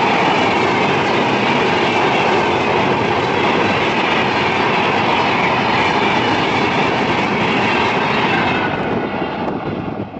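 A passenger train running past at speed: a loud, steady rush of wheels on rail with clickety-clack, dying away near the end.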